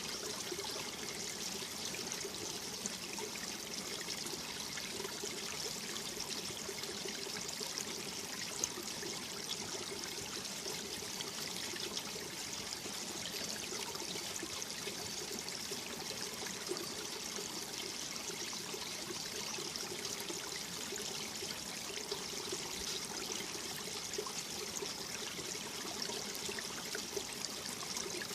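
Mountain valley stream flowing steadily, a continuous rush and trickle of water.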